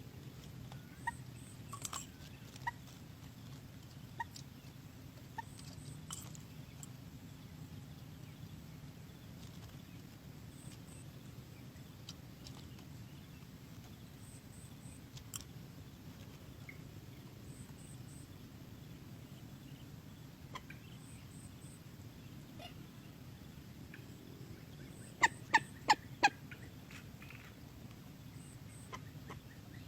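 Common moorhen calling: a few scattered sharp calls, then four loud, sharp calls in quick succession near the end, over a low steady background.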